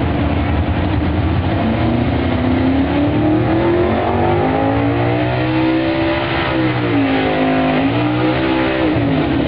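Modified pickup truck engine at full throttle pulling a weight sled, its revs climbing, dipping briefly, climbing again and then dropping away near the end as the throttle comes off.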